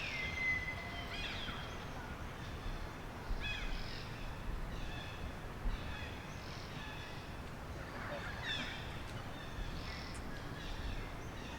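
Forest ambience: a low steady background with scattered short, faint, high-pitched animal calls, some falling in pitch, including one held call near the start.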